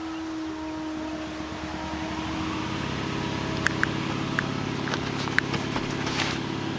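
A steady mechanical hum that comes in and grows louder about three seconds in, with several light clicks and taps over it.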